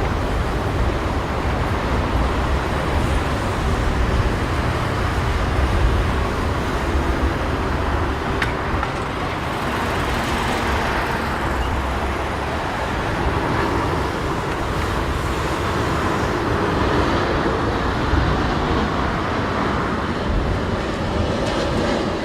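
Gusting wind rumbling on the microphone over a steady rush of jet engine noise from a Boeing 787-9 airliner on its landing approach.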